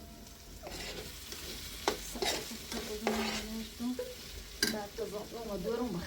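Food sizzling in a hot pan while a utensil stirs it, with a few sharp knocks of the spoon against the pan. The sizzling comes up under a second in.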